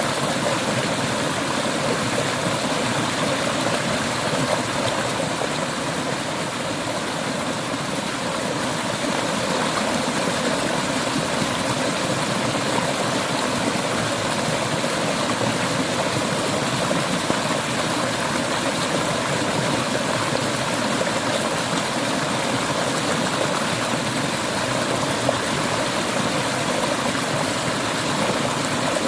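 Clear river water flowing steadily over rocks, a continuous rushing and babbling.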